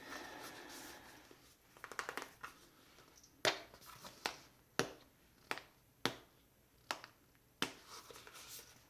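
Objects handled close to the microphone: soft rustling, a brief crackle about two seconds in, then a run of about seven sharp clicks or taps, roughly one every two-thirds of a second.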